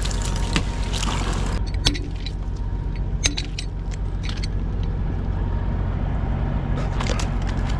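Heavy-haul truck's diesel engine idling steadily, with bursts of crunching and cracking ice over it, busiest in the first two seconds and again near the end.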